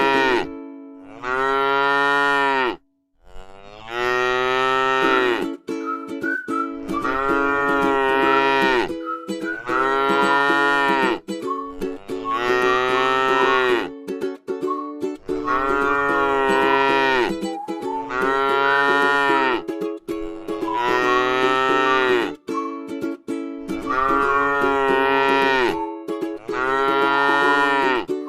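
Cow mooing over and over, one drawn-out moo about every two seconds, each rising and falling in pitch and much alike.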